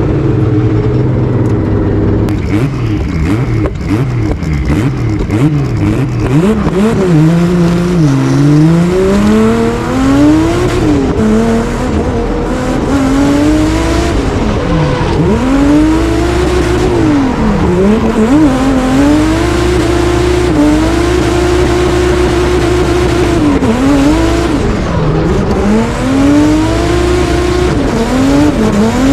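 Turbocharged drift car's engine heard from onboard, revving up and down hard and constantly through a drift run, held at steady high revs for a few seconds midway.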